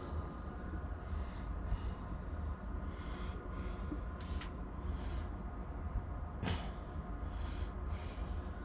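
Steady low hum and air rush of an Aquahot 250D hydronic heating system running and blowing heat, with soft breaths close to the microphone now and then.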